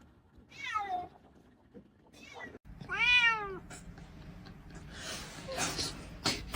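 A cat meowing, twice: a short falling meow, then a louder, longer one about three seconds in that rises and falls in pitch. Near the end come a rustling hiss and a few clicks.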